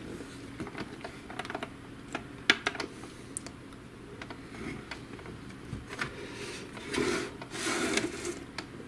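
Irregular light clicks and taps of the plastic parts of an HP DeskJet GT 5820 inkjet printer being handled during disassembly. There is one sharper click about two and a half seconds in and a stretch of scraping near the end.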